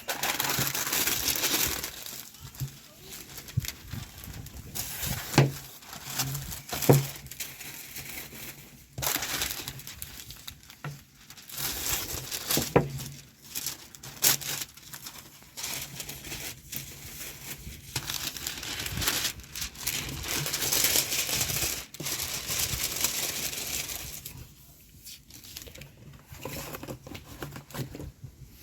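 Wrapping material crinkling and crumpling in the hands, in irregular bursts with occasional sharp crackles, as chicken drumsticks are wrapped one by one.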